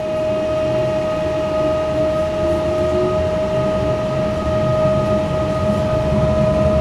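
Electric commuter train running, heard from inside the carriage: a steady high-pitched whine over a low rumble that grows louder as it moves off.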